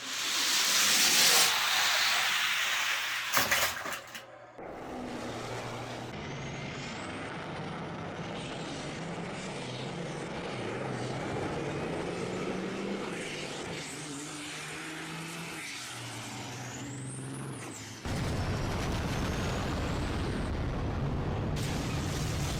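Semi-truck sound: a loud air-brake hiss, then a diesel engine running and stepping up and down through its gears. It gets louder and deeper about 18 seconds in.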